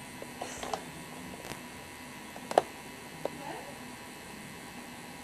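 Room tone in a small room: a steady low electrical hum with a few faint clicks, the sharpest about two and a half seconds in.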